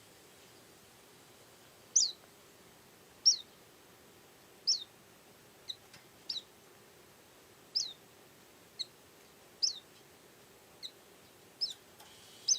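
White-eye (pleci) giving short, high chirps, each a quick falling sweep, repeated about once a second after a quiet first two seconds, some calls fainter than others.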